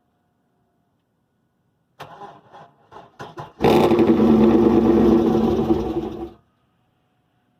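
A 2001 Camaro SS's LS1 V8 being cranked on a weak battery after sitting for months: a few slow, halting turns of the starter, then about three seconds of louder, steady cranking that stops suddenly, with the engine not staying running.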